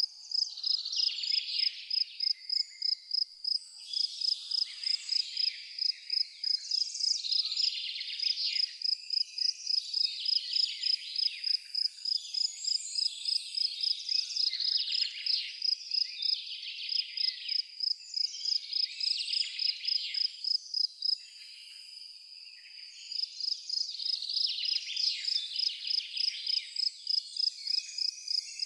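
A cricket chirping in a steady train of rapid, evenly spaced high chirps, with birds twittering over it. The cricket stops for about two seconds about three-quarters of the way through, then starts again.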